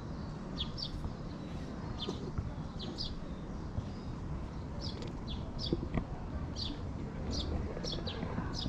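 Small birds chirping: short high chirps, often in pairs, about one to two a second, over a steady low rumble.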